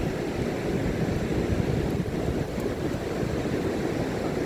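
Ocean surf breaking on the beach, a steady low rush of waves, with wind noise on the microphone.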